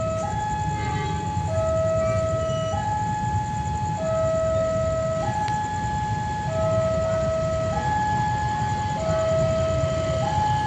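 Electronic two-tone warning siren alternating evenly between a higher and a lower note, each held about a second and a quarter, over a steady low rumble.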